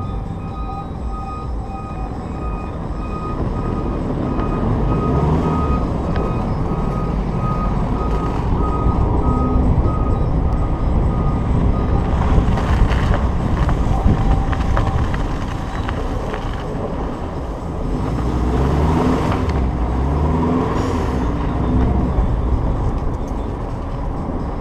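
Car engine running and revving up and down repeatedly while driving through snow, with heavy wind and road noise on an exterior-mounted camera. A repeating electronic beep sounds for the first several seconds.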